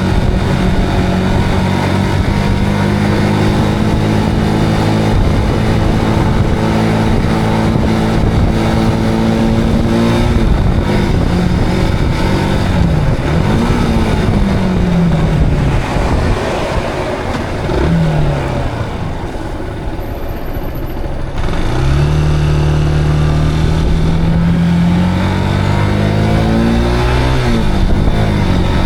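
Zontes cruiser motorcycle engine running under way with wind noise. Its pitch rises and falls several times through the middle as the revs change. About two-thirds through it eases off and quietens, then pulls strongly again.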